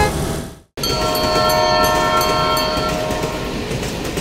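Train horn sounding a held chord for a little over two seconds over the steady rumble of a running train, starting after a brief moment of silence about three quarters of a second in.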